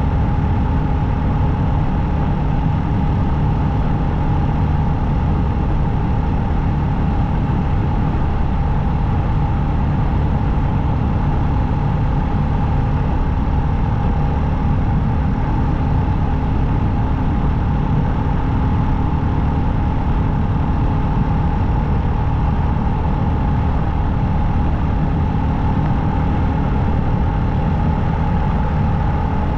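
Motorcycle engine running at a steady, unchanging speed while riding on the highway, with constant road and wind noise.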